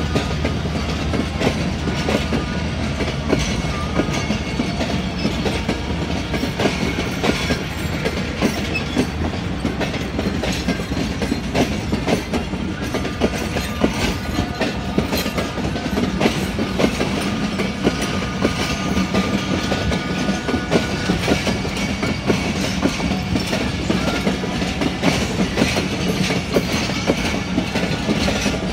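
Passenger train coaches rolling past, their wheels clacking steadily over the rail joints. A low hum is heard in the first several seconds and fades out.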